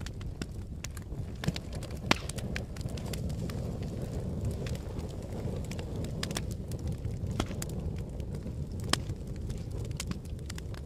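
Fire burning with a steady low rumble and irregular sharp crackles and pops, a few louder snaps standing out, about two seconds in and again near the end.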